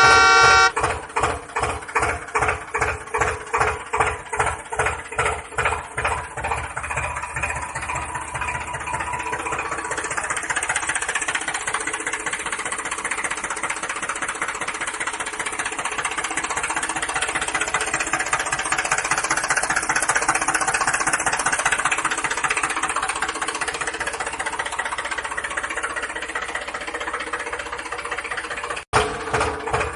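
A tractor engine running. For the first few seconds it beats slowly and evenly, about two to three knocks a second, then settles into a faster, steadier run. It cuts out for a moment near the end.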